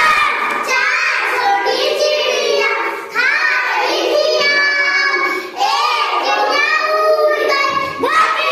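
A high-pitched voice singing in gliding, wavering melodic phrases, with brief breaks about three and five and a half seconds in.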